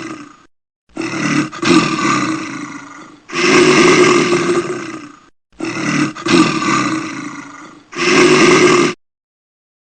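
A large animal roaring: four long, loud roars one after another, each fading away at its end. The roaring stops about nine seconds in.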